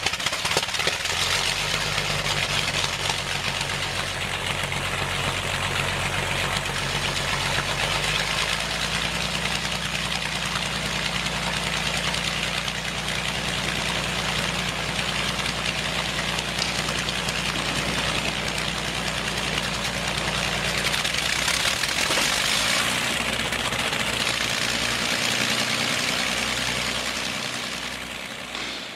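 An engine running steadily, with a hiss above the engine note and a change in engine speed about eight seconds in; the sound fades away near the end.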